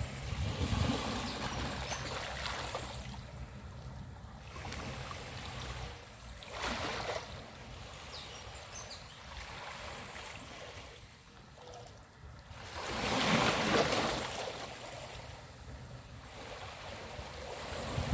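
Small waves breaking and washing up a beach, surging and fading in turn, with the loudest wash about two thirds of the way through.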